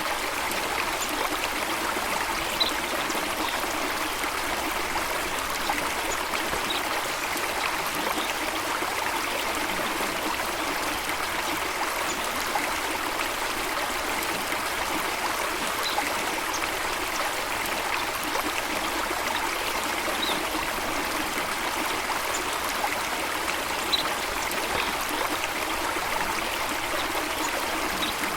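A stream of running water flowing steadily, with a few faint, brief high chirps now and then.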